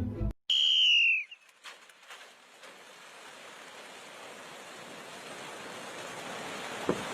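A bird gives one loud, clear whistled call about three-quarters of a second long that dips in pitch at its end. A faint, steady hiss of background noise follows.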